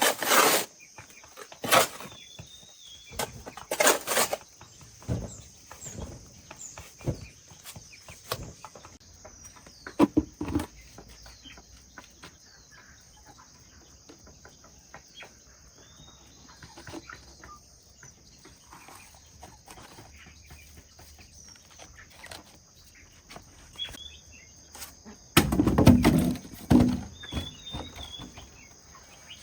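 Outdoor rural ambience: birds chirping now and then over a steady high insect drone, broken by scattered knocks and thuds of handwork and a longer stretch of loud rustling near the end.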